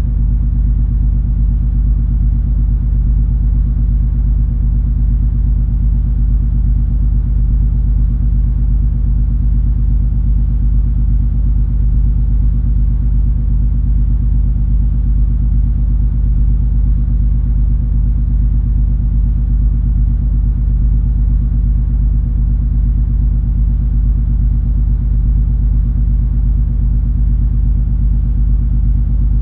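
Steady deep rumble of the MS Color Fantasy cruise ferry's engines and machinery under way, with a low hum of several steady tones and no change in level.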